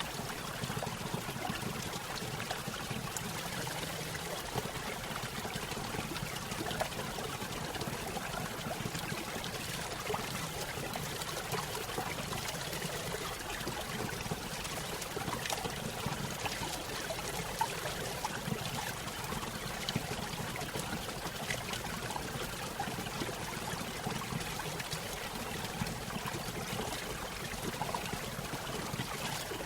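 Water of a small stream spilling over a little waterfall, a steady splashing trickle with many small flicks and gurgles.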